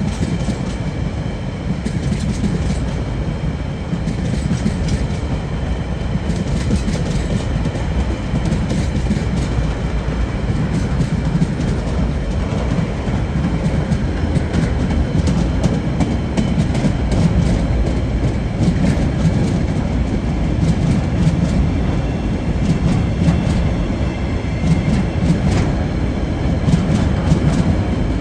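Freight train wagons rolling past: a steady rumble of wheels on rail with repeated clicking over the rail joints.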